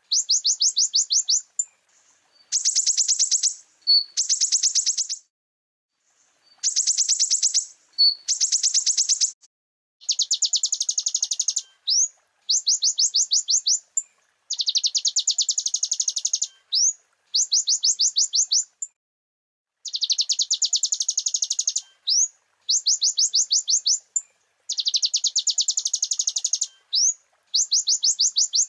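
Kolibri ninja sunbird singing: fast, high trills of rapidly repeated notes in bursts of one to two seconds, broken by short gaps and single quick upward-slurred notes.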